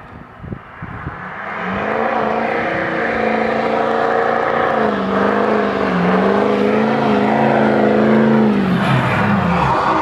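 A vehicle engine revs up and holds high and steady for about seven seconds, its pitch dipping slightly now and then, then winds down near the end. A few thumps come in the first second.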